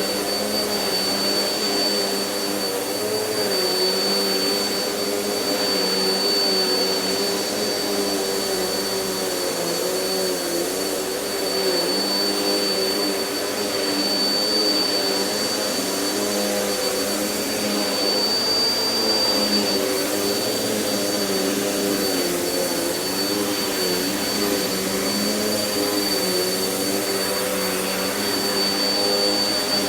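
Vacuum cleaner running steadily, its motor pitch wavering slightly as it is pushed back and forth over the floor, with a constant high whine.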